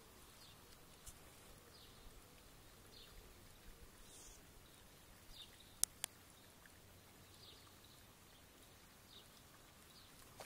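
Near silence with faint, scattered short chirps of small birds, and two sharp clicks about six seconds in, a fifth of a second apart.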